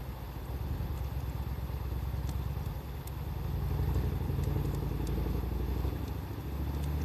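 A low rumble of passing motor traffic that swells about halfway through, over a wood fire crackling with a few faint, sparse pops.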